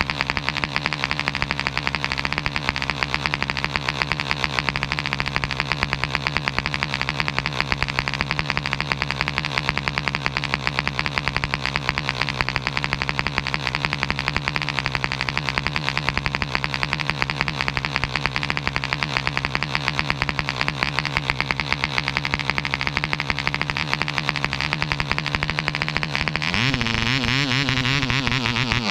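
Webra 1.5cc model-airplane diesel engine running steadily at a moderate speed, with a fast even buzz. About 26 seconds in it speeds up sharply and carries on at a higher, less even pitch.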